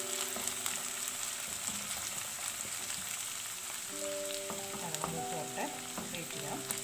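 Crushed shallots, ginger and garlic sizzling in coconut oil in a nonstick pan, stirred with a wooden spatula that clicks and scrapes against the pan. They are being sautéed just until the raw smell goes, not browned.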